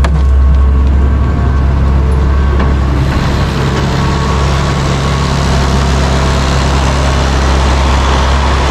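A heavy engine running steadily at a constant speed, with a rougher, noisier sound building up about three seconds in.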